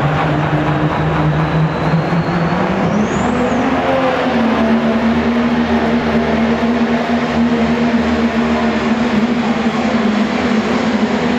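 Diesel pulling truck's engine running hard under load; its pitch climbs about two to four seconds in, then holds higher and steady.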